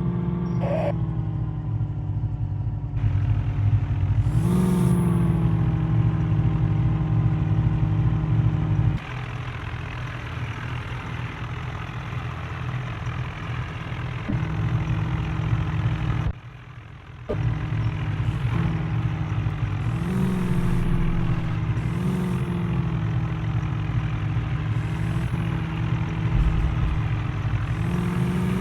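Heavy diesel engine running steadily, swelling up in revs several times, with abrupt breaks where the sound changes suddenly.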